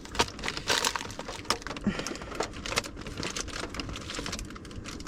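Handheld pens clicking and clattering against each other, with bag rustling, as pens are sorted and dropped into a bag; a quick run of small irregular clicks.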